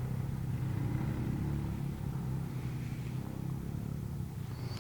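Engines of off-road vehicles on a trail running steadily with a low drone, easing slightly as they move away.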